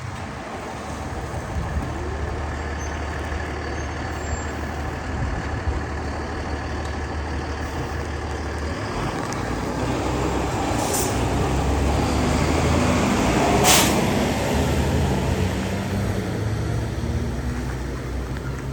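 Heavy fire engine's diesel engine running and rumbling past, growing louder to a peak about 14 seconds in, with short hisses of air brakes near the loudest point.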